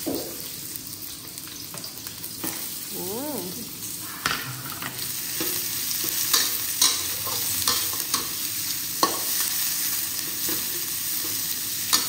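Sliced onions sizzling in hot oil in a wok, stirred with a metal spatula that scrapes and clicks against the pan again and again from about four seconds in.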